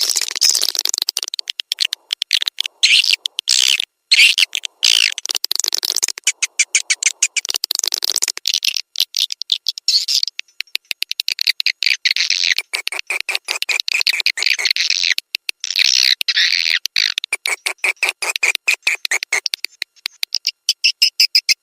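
Recorded swiftlet calls used as a lure sound: rapid, high-pitched chattering chirps and clicks in dense trains, with short breaks, played to attract swiftlets to a nesting house.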